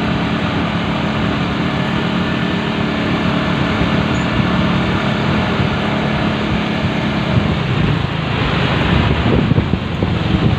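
Motorcycle running steadily under way, with road and wind noise around it. A louder rush of noise sets in about eight seconds in.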